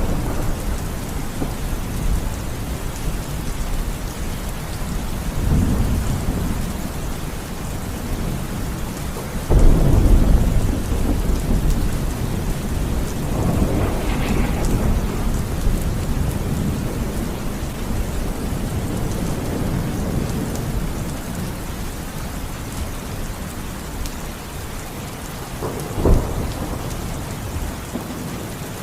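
Thunderstorm: steady rain with rolling rumbles of thunder, a loud thunderclap about nine and a half seconds in, and a shorter sharp crack near the end.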